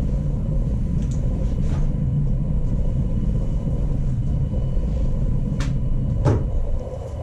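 Shinkansen train running by, a steady low rumble with a faint whine over it, dropping off just before the end, with a couple of light clicks shortly before.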